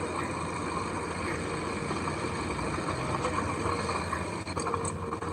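Heavy construction machinery's diesel engine running steadily.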